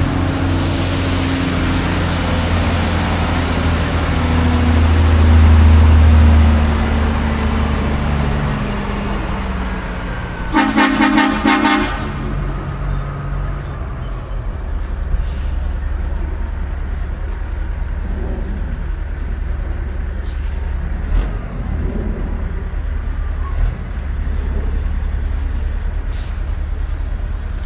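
Semi truck's diesel engine running under load while backing, swelling in level a few seconds in, with a short pitched horn blast about eleven seconds in, then settling to a steady low idle.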